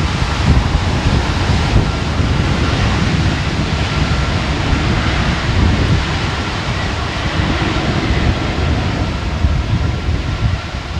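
Strong gusty wind buffeting the microphone over a steady, broad jet roar from a Boeing 747-400's four engines, with a faint steady whine in it.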